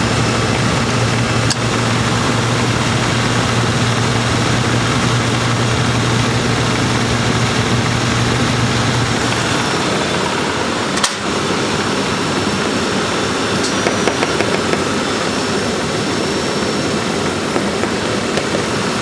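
1995 Lincoln Town Car's 4.6-litre V8 idling with the air conditioning running on high, a steady mechanical rush. A low hum under it stops about nine and a half seconds in.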